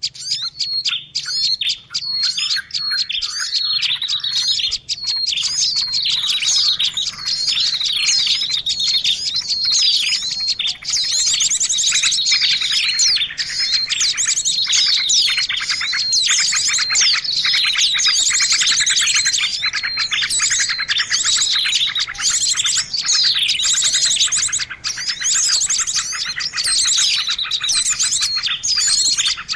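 A dense chorus of many small songbirds chirping and trilling rapidly over one another without a break: a bird-lure (pikat) recording meant to draw small birds in.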